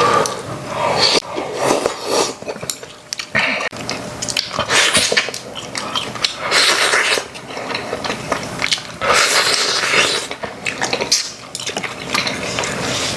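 Spoons and chopsticks clinking against bowls, with irregular eating sounds as a family eats pork-backbone soup.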